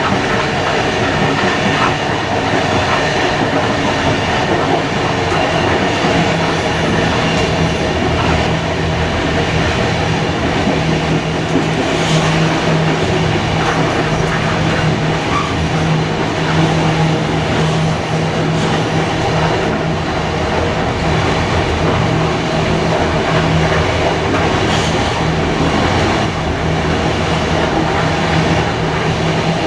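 Steam-hauled heritage passenger train running along the line, a steady rumble of wheels on rail, with a steady hum that grows stronger about a fifth of the way in.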